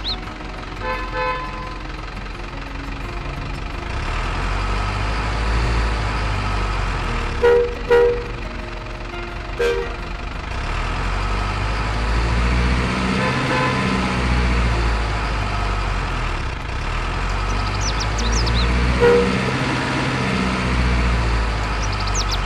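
Truck engine rumble that swells and eases, with short horn toots: two close together about seven and a half seconds in, another near ten seconds, and one more near nineteen seconds.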